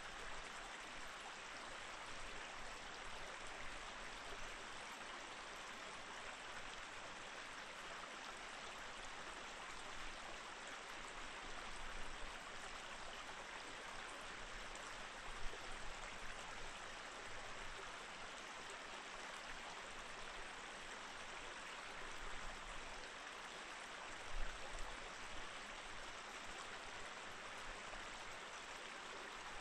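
Mountain stream flowing steadily, an even rushing of water with no change in pace. A few brief low bumps stand out now and then.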